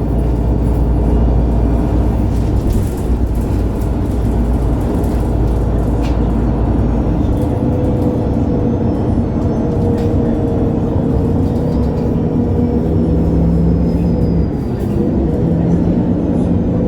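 Engine of a MAN A23 Lion's City G articulated city bus running as the bus drives, heard from inside the bus. A deep steady rumble drops away about seven seconds in, and the engine tones shift and rise a little later on.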